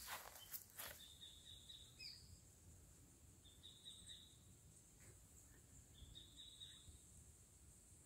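Near silence with three faint, short, high bird calls about two seconds apart, and a few soft knocks in the first second.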